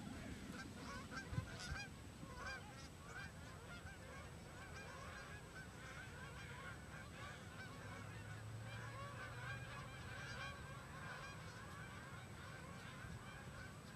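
A flock of geese honking faintly, many short calls overlapping without a break. A brief knock stands out about a second and a half in.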